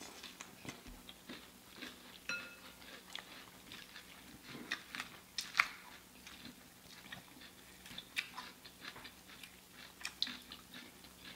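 Eating sounds close to the microphone: faint chewing and crunching of salad and fried shrimp, with scattered small wet clicks and crackles at no steady rhythm.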